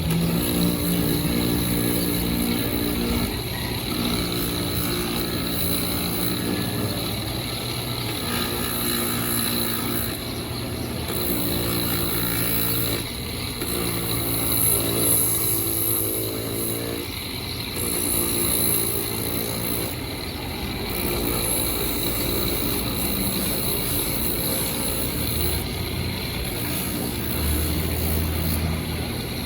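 Shoe-repair sanding machine running steadily while a rubber sole cut from aircraft tyre is sanded against it; the motor's hum shifts in pitch from moment to moment.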